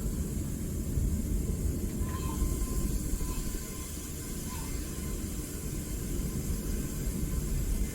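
Home-made propane furnace with its burner running: a steady low rumble with a hiss over it.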